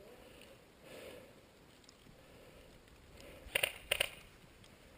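Two sharp clicks about half a second apart, a little over three seconds in, over faint outdoor noise.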